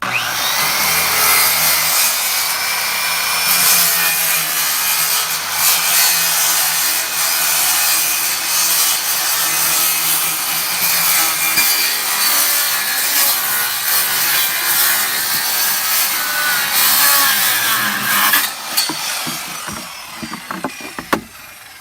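Handheld circular saw (Skilsaw) cutting a SnapJacket pile jacket to length. It starts suddenly, cuts steadily for about eighteen seconds, then winds down, with a few knocks near the end.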